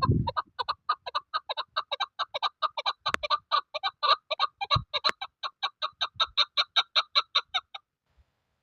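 Chukar partridge giving a fast run of repeated clucking calls, about six a second, that stops abruptly about a second before the end.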